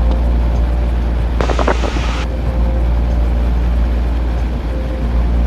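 Steady low drone of a Cessna 172N's four-cylinder piston engine and propeller in cruise, heard inside the cabin. A short burst of hiss with a faint voice fragment cuts in about a second and a half in.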